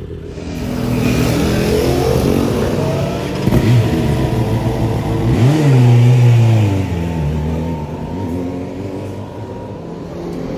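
Racing superbike engine sound, revving up sharply twice, the second time loudest before the pitch falls away.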